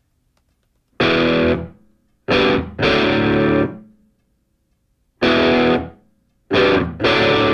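Background music: distorted electric guitar playing loud, held power chords that start sharply and ring out, with short gaps between them, after about a second of silence.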